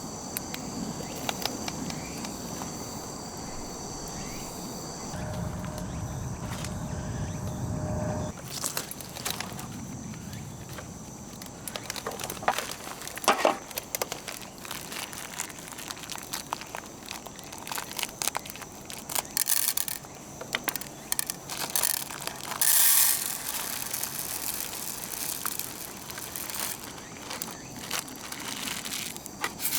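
Handling noises: scattered rustling, clicks and knocks. A low steady rumble runs through the first eight seconds and then stops.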